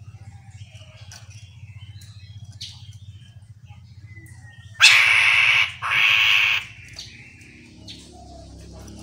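Chestnut-capped laughingthrush giving two loud, harsh, rasping calls about five and six seconds in, after faint scattered chirps. A low, rapidly pulsing hum runs under the first part.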